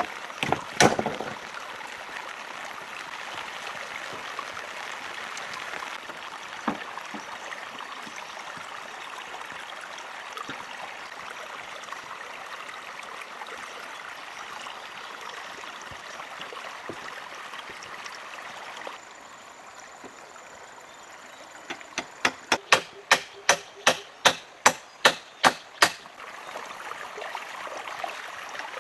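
Steady rushing of running water, like a stream. It drops away suddenly, and then comes a quick run of about a dozen sharp knocks, roughly three a second.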